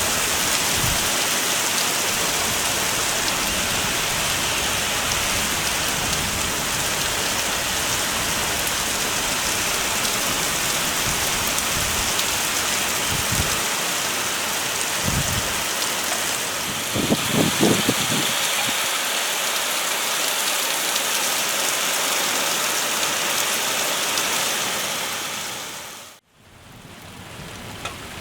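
Heavy rain falling steadily, with a few dull thumps and a brief cluster of knocks about two-thirds of the way through. Near the end it fades out abruptly, then comes back quieter.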